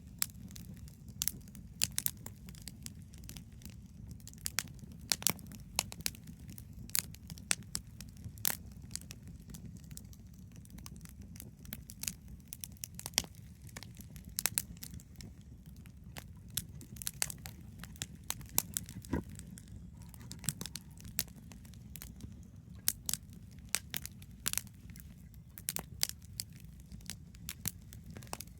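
Wood bonfire burning, crackling with irregular sharp pops and snaps over a steady low rumble.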